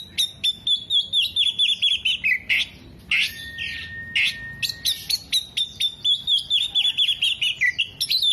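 Oriental magpie-robin singing loudly: two fast runs of sharp notes that slide down in pitch, with one long steady whistle between them.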